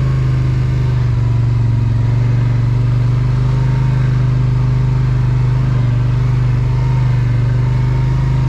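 Polaris Sportsman ATV engine running at a steady, low speed as the quad creeps slowly through mud, a strong, even drone that holds its pitch throughout.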